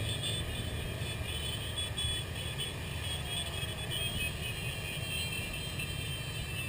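Many motorcycle engines running together at low speed, a dense, steady engine rumble.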